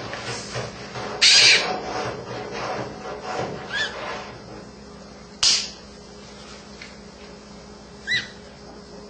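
Blue-and-gold macaws calling: short harsh rasps, the loudest about a second in, and two brief chirps later on.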